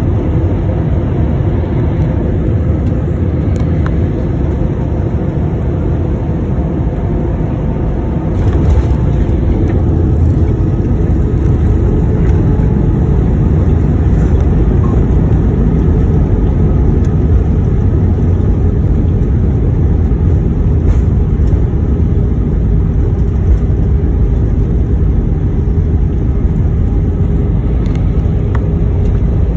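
Jet airliner cabin noise during landing: a steady, loud low rumble of engines and airflow. About eight seconds in the rumble jumps louder and stays louder.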